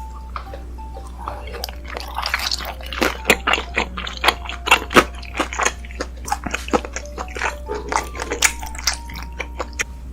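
Close-miked eating sounds: biting and chewing with many quick sharp clicks, starting about a second and a half in. Soft background music with a simple melody and a steady low hum lie underneath.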